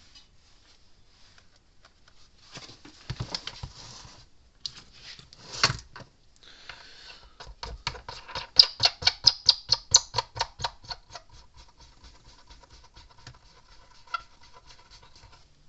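Parts being handled and knocked together, then a hand ratchet clicking quickly and evenly, about five clicks a second, as a nut or screw is tightened. The clicks are loudest for a few seconds, then fade.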